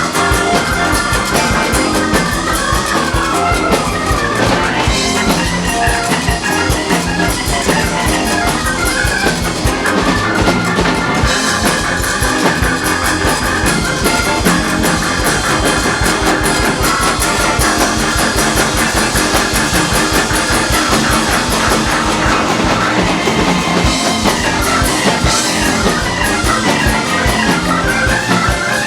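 Live rock band playing an instrumental stretch: a steady drum-kit groove under electric guitar.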